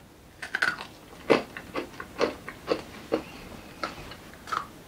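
Chewing of a crisp-shelled M&M Brownie candy, its candy coating crunching in short sharp bites, about two a second.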